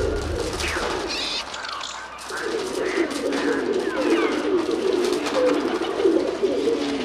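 Pigeons cooing, many overlapping coos at once, with occasional higher chirps among them.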